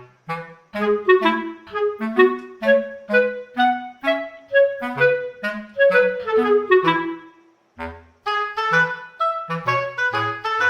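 Background music: a light tune led by a clarinet-like woodwind, played in short detached notes over a plucked bass line, with a brief pause about three-quarters of the way through.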